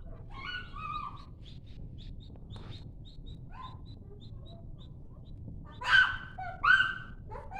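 High, bird-like animal chirps and calls: a quick run of short chirps, then two much louder calls near the end.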